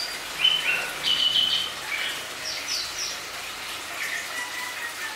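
Small birds chirping: short, high chirps in quick runs of two or three notes, repeated several times and growing fainter near the end.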